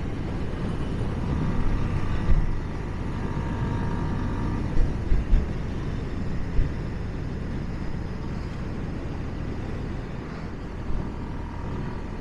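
Motorcycle riding at speed: a steady rush of wind and road noise over the engine, with a few short thumps in the middle.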